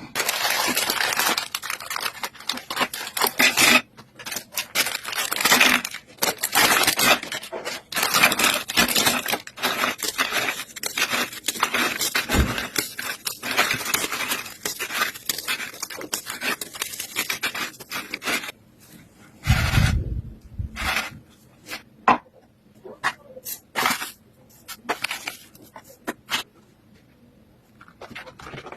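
Kitchen food-preparation sounds: dense scraping and rustling for about eighteen seconds, then scattered clicks and knocks with one low thump.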